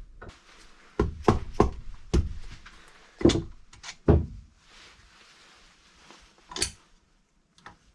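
A string of irregular knocks and thunks, about eight of them, loudest in the first half and growing sparser towards the end.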